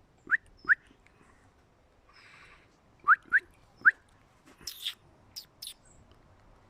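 A person whistling short, rising calls to summon a jay, in two quick groups of three. A brief rustle and two sharp clicks follow the second group.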